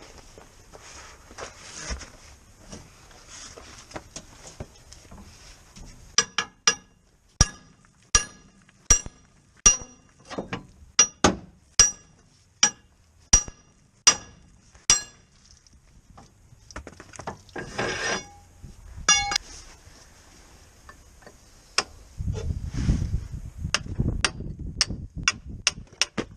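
Metal-on-metal tapping: about fourteen sharp, ringing strikes, roughly one and a half a second, then a short quick rattle of ticks and, near the end, a louder low rumble with clicks, all from hand work with metal tools and parts.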